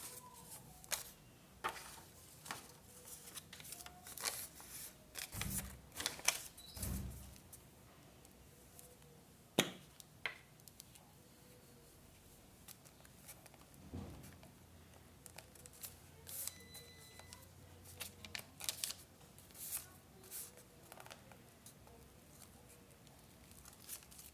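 Scrapbooking paper being handled and cut with scissors: scattered short snips, rustles and light taps, with a couple of soft thuds about five to seven seconds in.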